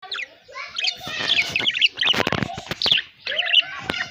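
Budgerigars chattering and warbling: rapid, busy chirps and twittering notes with sharp clicks mixed in.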